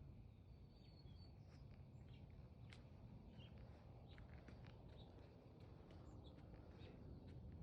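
Near silence outdoors: faint, scattered bird chirps and small ticks over a low, steady rumble.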